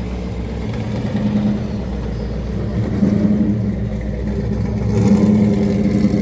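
Car engine running, its revs swelling briefly three times: about a second in, around three seconds, and just after five seconds.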